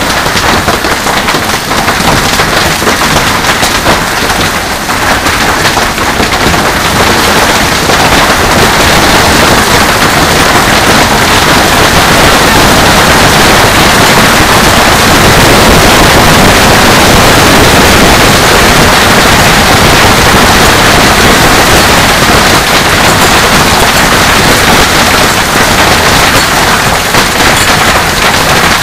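Heavy hail pelting down: a dense, continuous clatter of hailstones striking hard surfaces, growing louder about eight seconds in and staying at that level.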